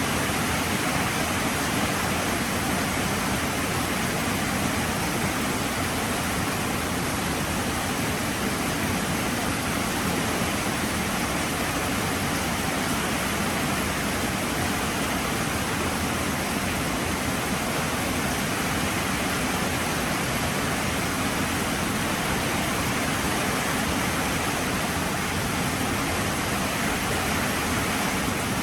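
Heavy rain falling steadily: a dense, even hiss of downpour with no breaks.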